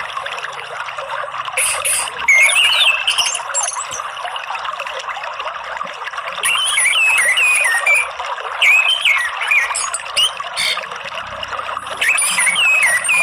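Steady running water, with an orange-headed thrush singing three spells of quick, up-and-down whistled phrases, about two, six and a half, and twelve seconds in.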